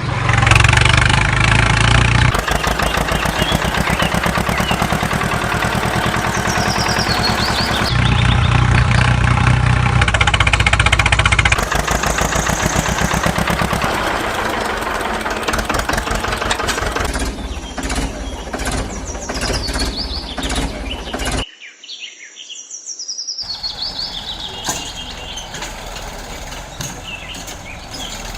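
A small engine running with a fast, even pulse, changing in level several times, then cutting off suddenly about 21 seconds in. After a short gap it comes back quieter with birds chirping over it.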